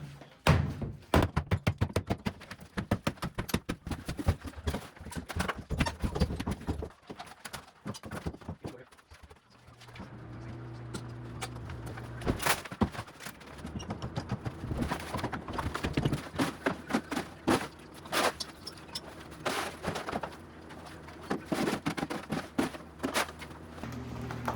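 Demolition work: a rapid run of sharp knocks, several a second, then scattered knocks and thuds over a steady low hum that comes in about halfway through.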